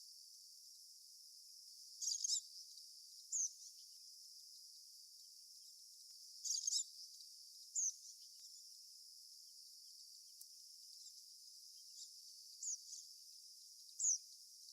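Short, high bird calls, a single call or a quick cluster at a time, in about six bouts, over a steady high hiss of insects.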